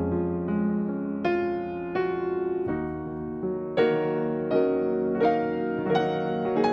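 Background piano music: a slow, gentle melody of separate struck notes, each ringing on after it is played.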